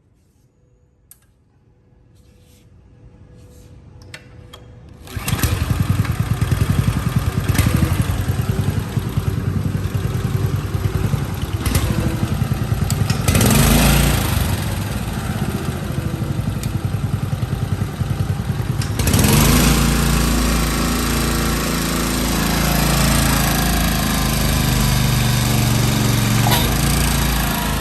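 Small gasoline engine of an HPG-700MX double-acting pump starting about five seconds in and running loudly, with a steady rhythmic beat; its note changes and settles about 19 seconds in. A single click sounds about a second in, before the engine starts.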